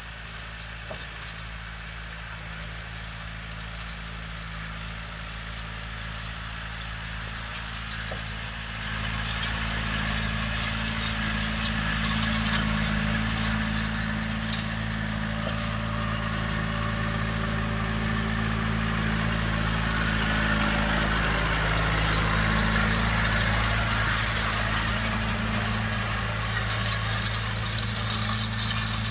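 John Deere 6120 tractor's diesel engine running steadily under load while pulling a John Deere 450 grain drill, with the drill rattling and clattering over it. It gets louder about nine seconds in.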